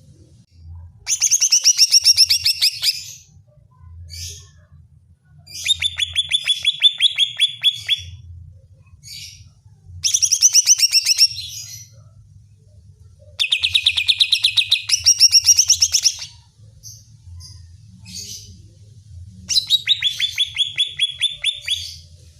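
Greater green leafbird (cucak ijo) singing: five loud bursts of fast chattering notes, each about two seconds long, separated by short pauses with faint single calls.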